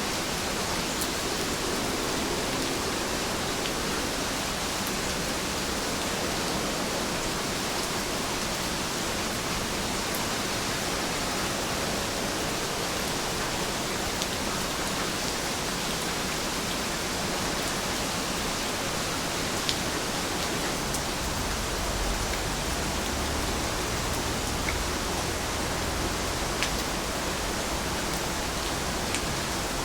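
Steady rain falling, an even hiss with a few sharper drop ticks now and then. A faint low rumble joins about two-thirds of the way through.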